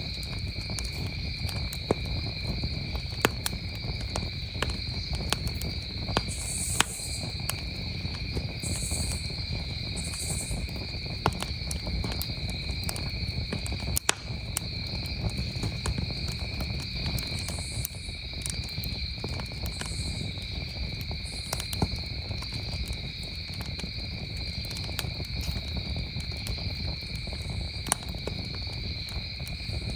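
Campfire crackling, with many scattered sharp pops, over a steady chorus of crickets chirping at two high pitches. A low steady rumble lies underneath.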